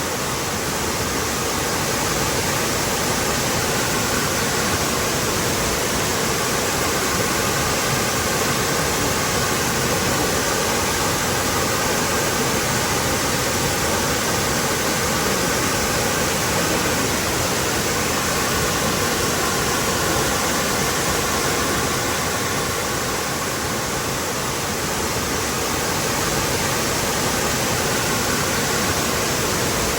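Waterfall pouring steadily: an even, constant rush of falling water.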